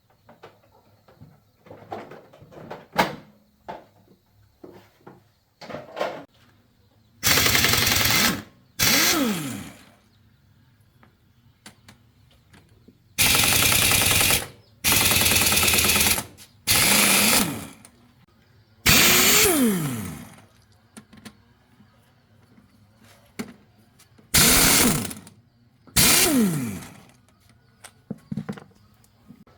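A power tool run in about eight short bursts of roughly a second each, each burst ending with the motor's pitch falling as it spins down after release. Light clicks and knocks from handling parts come in the first few seconds.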